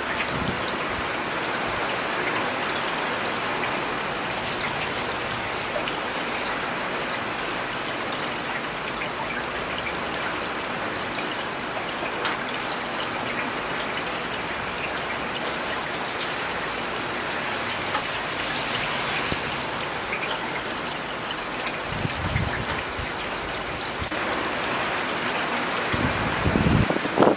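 Steady rain falling on city surfaces, an even hiss with drips and splashes. Two brief low rumbles come through near the end.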